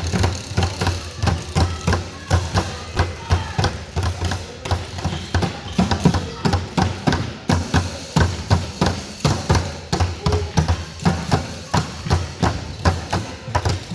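Basketballs bouncing on a court floor: a steady run of dull thumps, about three to four a second, with faint voices and squeaks among them.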